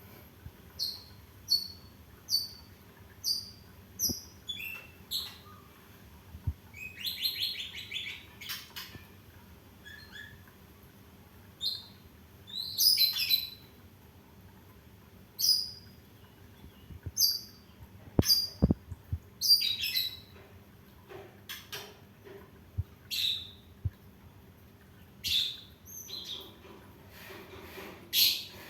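Caged songbird calling in short, sharp, high chirps at irregular intervals, with a brief rattling trill about seven seconds in.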